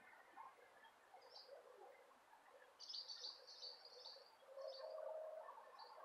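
Faint bird chirps over quiet outdoor ambience: a brief chirp about a second in, then a longer twittering run about halfway, and a few more chirps later. A faint steady low hum comes in near the end.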